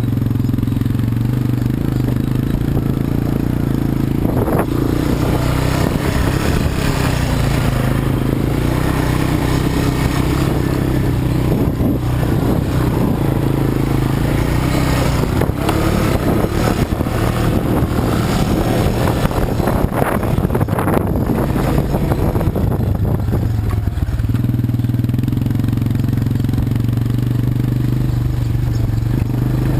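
ATV engine running: a steady note at first, changing in pitch and mixed with knocking and rattling from about four seconds in, then settling back to a steady note near the end.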